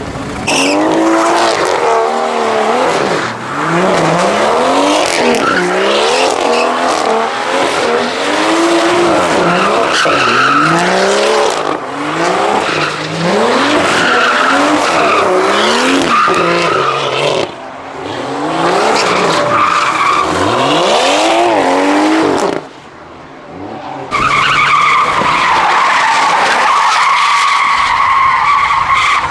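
A drifting car's engine revving hard, its pitch rising and falling about once a second, over screeching tyres. Near the end the revs drop away briefly, then a long steady tyre squeal takes over.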